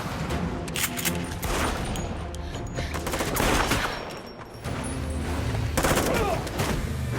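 Movie gunfight: a volley of repeated gunshots fired in quick succession, over a tense film score.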